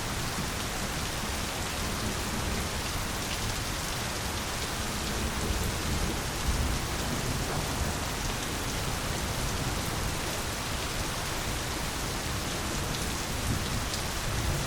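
Steady, even rainfall, with a low rumble of thunder swelling briefly about six seconds in.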